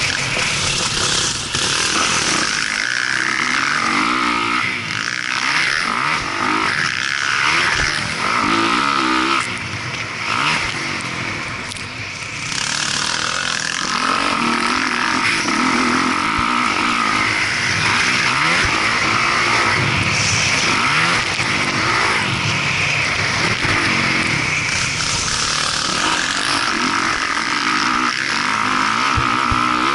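Motocross dirt bike engine revving hard, its pitch climbing and dropping repeatedly as the throttle is worked and the gears change.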